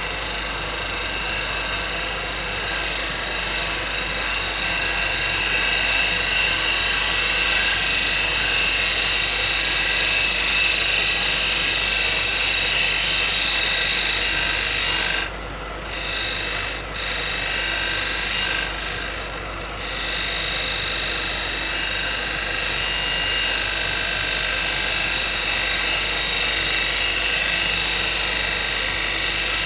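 A bowl gouge cutting a spinning rowan blank on a wood lathe: a steady hiss of the cut over the lathe's running. The cutting noise drops out briefly three times about halfway through.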